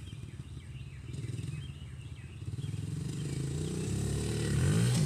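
Honda dirt bike engine running, faint at first, then getting louder and rising in pitch near the end as the throttle is opened.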